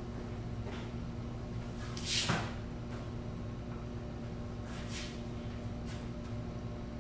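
A short sliding or scraping noise about two seconds in, and a fainter one near five seconds, over a steady electrical hum.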